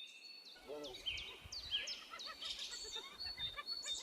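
Outdoor ambience of several birds chirping repeatedly in short rising and falling calls, over a faint low rumble that starts about half a second in.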